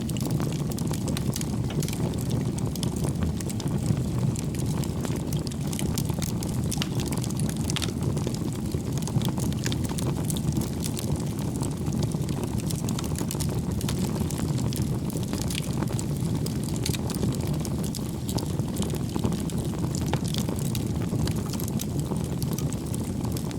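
Wood fire burning in a fireplace: a steady low rumble of flames with many small, irregular crackles and pops from the burning logs.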